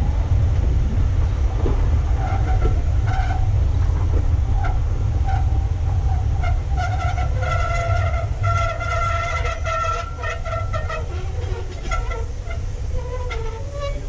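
Wind buffeting the microphone over a passing train. A high tone sounds on and off, is held steady for a few seconds past the middle, then fades.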